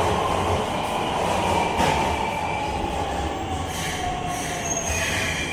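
Keisei 3000 series electric train pulling in and slowing to a stop. A whine falls steadily in pitch over the rumble of the wheels, and a thin high squeal comes in near the end as it brakes.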